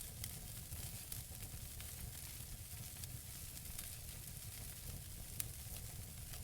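Wood fire burning in a fireplace: a steady hiss with scattered small crackles of the burning logs, and one louder pop about five seconds in.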